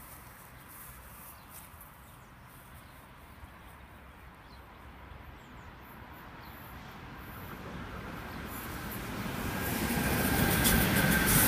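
Electric freight train, double-headed by two electric locomotives and hauling covered hopper wagons, approaching. Its rumble grows steadily louder over the second half, with sharp wheel clicks and a thin whine as the locomotives draw level near the end.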